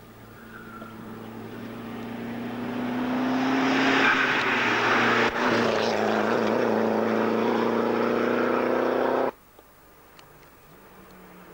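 A rally car's engine comes closer at speed, growing steadily louder, then passes close by running hard at high revs. The sound cuts off abruptly about nine seconds in, leaving only the faint engine of another car in the distance.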